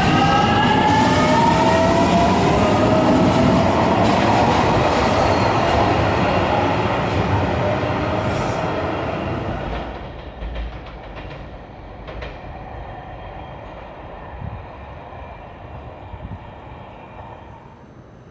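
Electric train pulling away, its motors whining and rising in pitch as it speeds up, over the running noise of the train. The sound fades after about ten seconds as it leaves.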